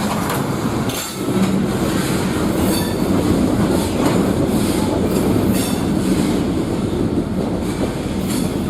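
Freight train rolling past: a steady rumble of railcars with a wheel clack over a rail joint every second or so.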